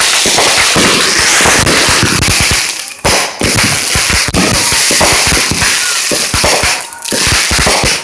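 Fireworks going off in a dense string of rapid, irregular pops and crackles from bursting aerial shells, with brief lulls about three and seven seconds in.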